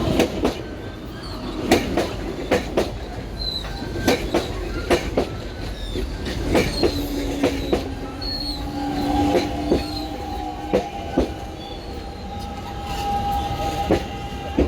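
Chinese-built electric commuter train running past at the platform: its wheels clack over rail joints in uneven runs, with short high wheel squeals. A steady electric whine comes in during the second half.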